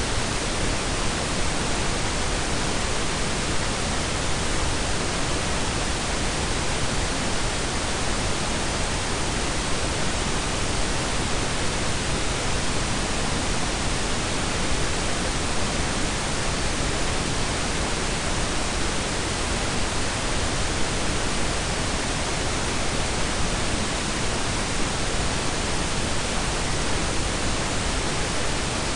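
Steady synthetic pink and brown noise blended together: an even, unchanging hiss with a deep rumble underneath.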